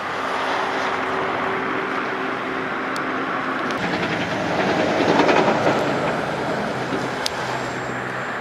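Radio-controlled model airplane's electric motor and propeller running in flight over a steady rush of wind noise. It swells louder about five seconds in, and its pitch drops.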